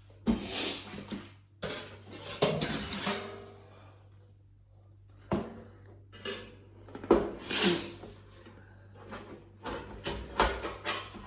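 Thin metal panels of a flat-pack fire pit being handled and slotted together: a run of irregular clanks, scrapes and rattles, some with a short metallic ring.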